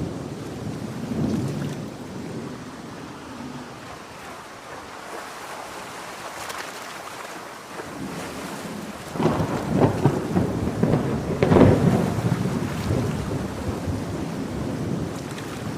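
Thunderstorm with steady rain and rolling thunder. A louder rumble builds about nine seconds in, peaks a couple of seconds later and then eases off.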